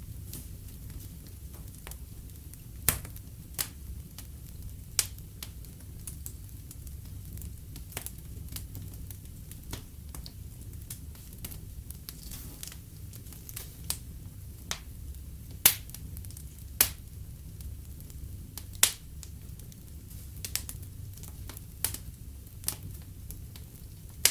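Fireplace fire crackling: irregular sharp pops over a steady low rumble of the flames, the two loudest pops coming about two-thirds of the way in.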